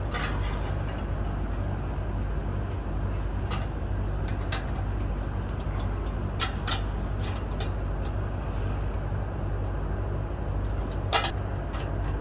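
Exhaust clamp being handled and fitted onto the exhaust pipe: a few sharp clicks and clanks, a small cluster past the middle and the loudest near the end, over a steady low hum.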